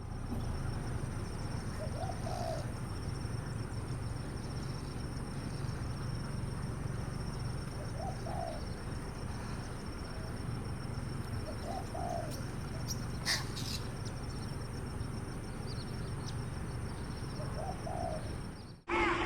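A bird's soft, short low calls, four of them a few seconds apart, over a steady outdoor background hiss, with one brief click about two-thirds of the way through.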